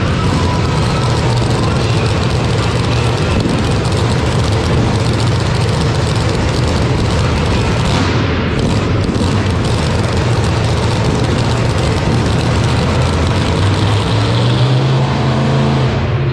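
Mini bike engines running hard, a steady engine note that climbs in pitch near the end.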